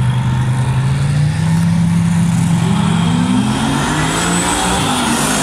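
A car engine accelerating hard down a drag strip, its pitch climbing in steps.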